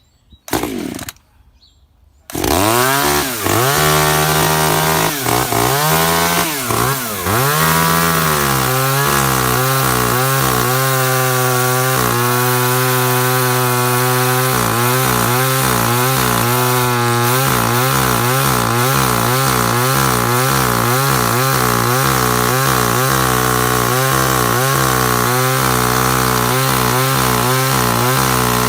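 Echo CS3400 top-handle chainsaw's small two-stroke engine being started: a brief burst about half a second in, then it catches about two seconds in. It revs up and down for a few seconds, then runs at high throttle with small repeated dips in pitch, consistent with cutting into a log.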